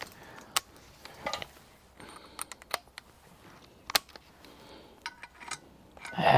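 Scattered light clicks and taps of small metal parts and hand tools being handled, with a few sharper ticks in short clusters.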